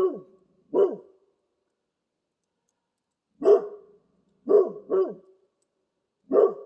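A dog barking: short single barks and a quick pair, about six in all, with pauses of one to three seconds between them.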